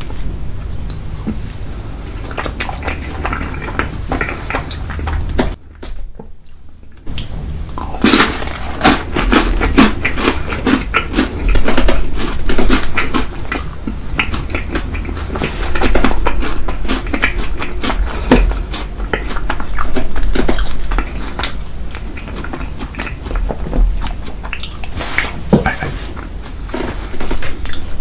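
Cutlery clinking and scraping against dishes while dessert is eaten, in many short clicks. There is a brief lull about six seconds in.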